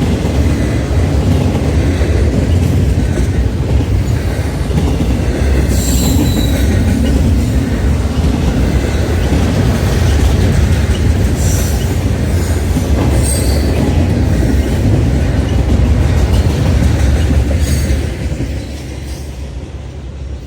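Freight train rolling past, its wheels and cars giving a heavy steady rumble with a few brief high wheel squeals. The sound drops off near the end as the train moves away.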